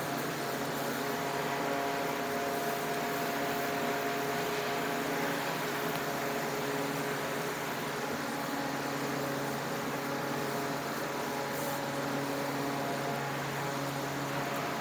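Steady hum and whir of a running machine: several steady tones over an even hiss, holding level throughout.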